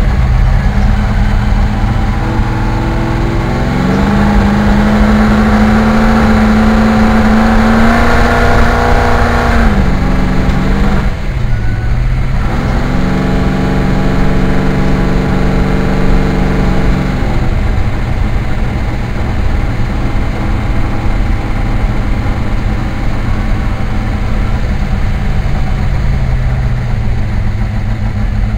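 Car engine under way, pulling to a higher steady pitch about four seconds in, easing off around ten seconds with a short dip, pulling up again, then settling back to a steady lower drone for the rest.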